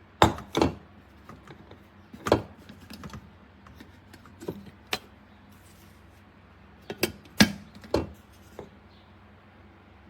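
Irregular sharp clicks and clinks of hard objects being handled, a few at a time, over a faint steady hum.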